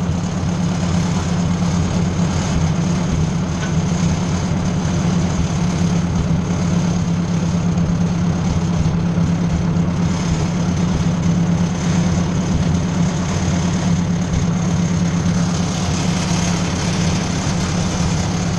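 Ford 600 tractor engine running steadily at an even speed, with no revving.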